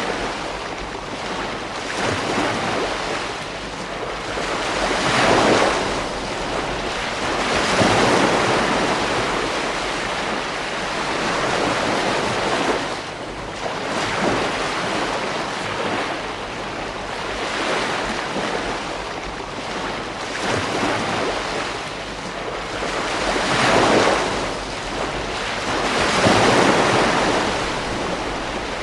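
Ocean waves breaking on a beach, surf rising and falling in swells every few seconds over a continuous wash, with some wind on the microphone.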